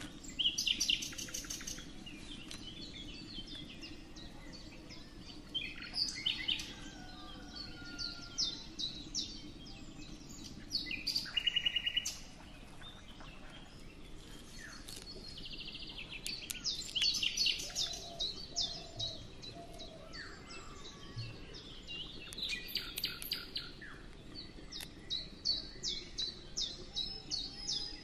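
Small birds chirping and trilling, with quick runs of repeated high notes coming again and again.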